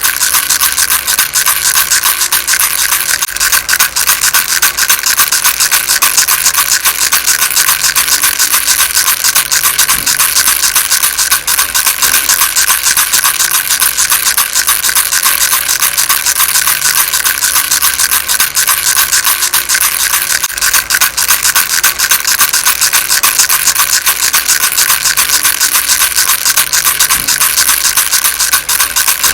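Baby rattle shaken continuously, a dense stream of fast, steady rattling.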